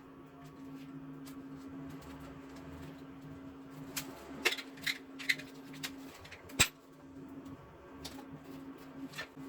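A few sharp clicks and knocks over a steady low hum, bunched in the middle, with the loudest single click a little before the end.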